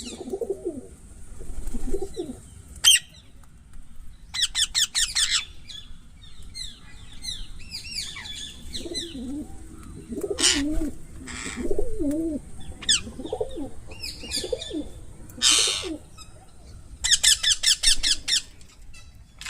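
Parrots calling: quick runs of high, rapidly repeated chirps, a couple of short harsh squawks, and low cooing calls in between.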